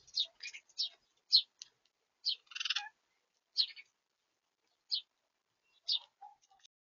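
Small birds chirping at a feeder: about a dozen short, high chirps in an irregular series, with one longer, rougher burst of notes about two and a half seconds in.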